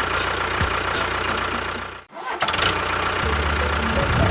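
Engine running steadily, cut off abruptly about two seconds in, then an engine starting up again, running with a stronger low rumble from about three seconds on.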